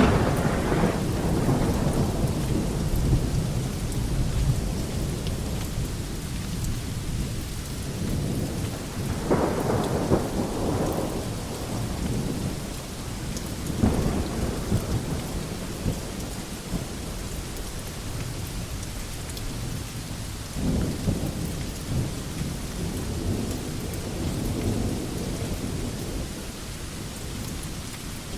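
Steady rain falling on a veranda, with low rolling rumbles that swell and fade several times, the loudest right at the start.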